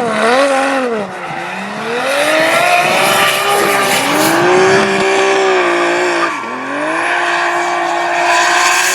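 A drift car's engine revving hard under full throttle, its pitch dipping and climbing as the throttle is worked, holding high, then dropping sharply about six seconds in before climbing again, with tyres squealing as the car slides.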